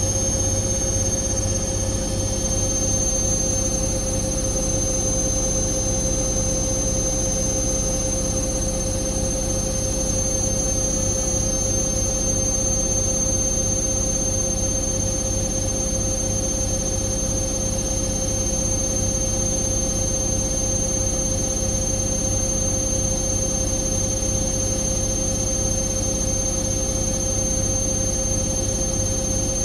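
Indesit IWC6165 washing machine spinning at a steady speed: a constant motor whine over an even rumble from the turning drum, with no change for the whole stretch.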